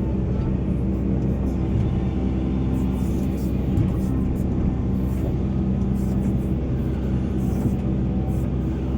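Heavy diesel engine of a Volvo EC480 excavator running steadily under load, a constant drone with faint short hisses or clatter above it.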